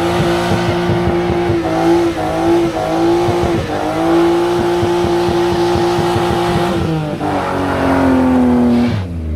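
Car engine revved hard and held at high revs, its pitch dipping briefly a few times, then dropping lower near the end, over a steady loud hiss.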